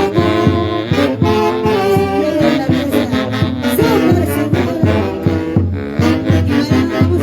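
Live band music from a Huancayo orquesta: saxophones and brass play a melody over a steady beat.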